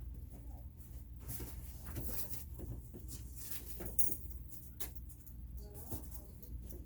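Scattered clicks, taps and rustles of things being handled, the sharpest about four seconds in, over a steady low hum.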